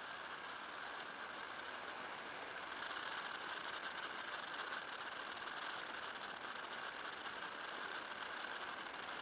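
Electric trike running, a steady hiss and whine from its 20 kW Rotex REX30 electric motor mixed with road and wind noise; it grows a little louder about three seconds in.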